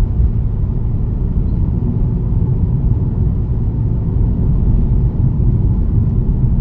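Steady low rumble of a car's engine and tyre noise heard from inside the cabin while driving at speed.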